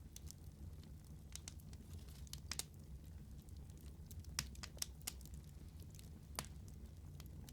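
Wood fire crackling: irregular sharp pops and snaps over a low, steady rumble of burning, with the loudest pops a little past four seconds and about six and a half seconds in.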